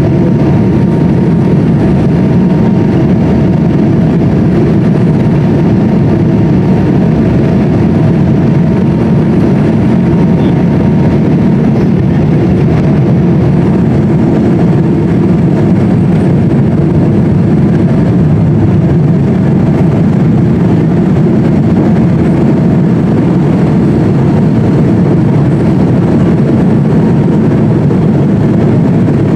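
Steady road and engine noise heard from inside a moving car's cabin, an even low rumble with a faint hum above it and no change in pace.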